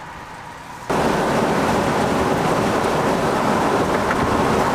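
Faint steady hum, then about a second in a sudden loud, even rush of wind and road noise from a moving vehicle.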